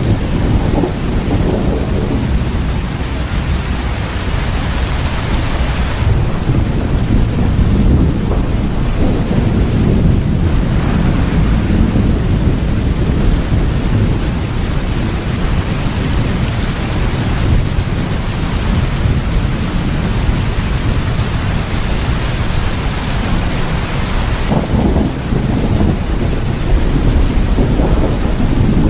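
Steady heavy rain with low rolling thunder rumbling underneath, swelling a few times.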